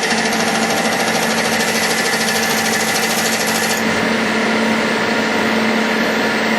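CNC metal lathe running: a steady machine hum with a fast, high rattle on top from the cutting. The rattle stops a little under four seconds in while the hum carries on.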